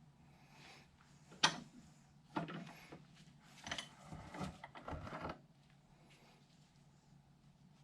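A few sharp metal knocks and clunks from tools and universal-joint parts being handled during driveshaft U-joint work; the first knock is the loudest.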